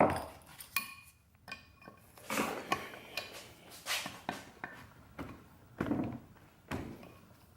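Metal clinks and knocks as hydraulic lash adjusters (lifters) are worked out of their tight bores in a 4G63 cylinder head. They come as separate sharp clicks, about one every second.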